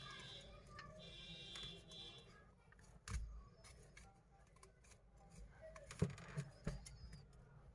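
Faint clicks and taps of a thin pry tool working the display of a Redmi Note 10S smartphone loose from its frame, with one sharp click about three seconds in and a quick cluster of louder ones around six seconds in.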